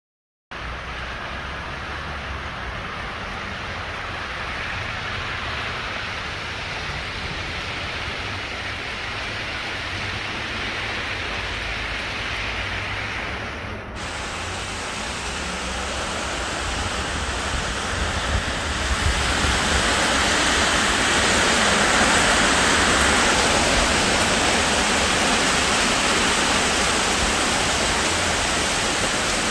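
Heavy rain falling, a steady hiss that starts suddenly about half a second in, shifts abruptly about halfway through and grows louder from about two-thirds of the way on.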